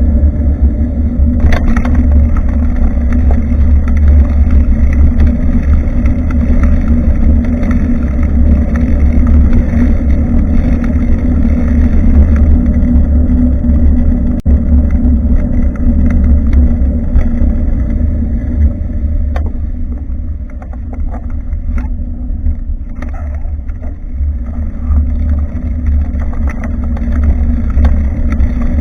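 Wind buffeting the microphone of a bike-mounted action camera while riding: a loud, steady low rumble with scattered small clicks and rattles, easing off for a few seconds past the middle.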